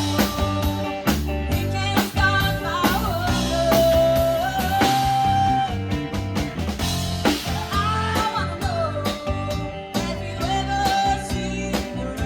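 Small rock band playing live with drum kit, bass and guitar in a steady beat, with a melody line that bends and slides in pitch above.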